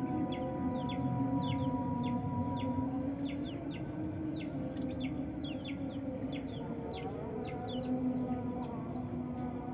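White-eye (pleci) singing: a rapid, continuous run of short, high, falling notes.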